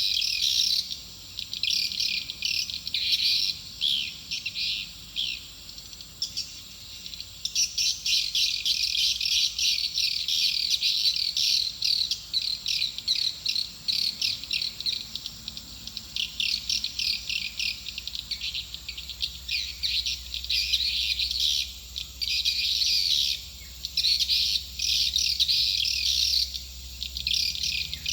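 Swiftlet calls: dense, rapid high-pitched twittering chirps in long bursts broken by short gaps. This is a lure call for drawing swiftlets into a nesting house.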